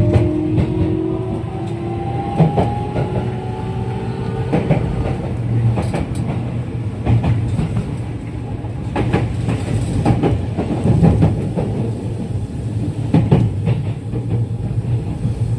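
A JR West 207 series electric train running, heard from inside the car, with its original, unchanged traction motors. The motor whine rises in pitch over the first few seconds as the train accelerates, then gives way to a steady running rumble with wheels clicking over rail joints.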